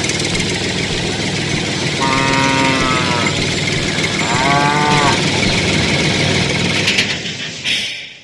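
Tractor engine running steadily, with two drawn-out pitched calls over it, the second rising and falling. It fades out near the end.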